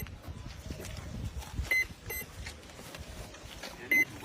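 Short high electronic beeps in pairs, one pair a little under two seconds in and another near the end, over low background rumble.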